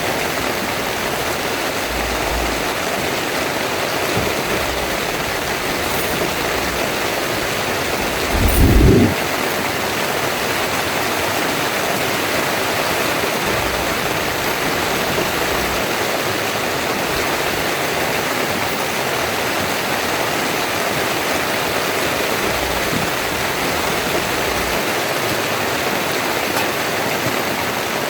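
Heavy rain pouring down as a steady, loud hiss. About a third of the way in comes a brief low rumble lasting about a second.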